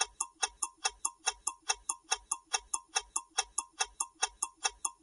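Clock-ticking sound effect of a countdown timer: fast, even ticks, about four to five a second.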